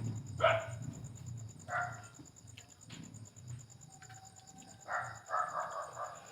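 A dog barking a few times: short single barks early on, then a quicker run of barks about five seconds in.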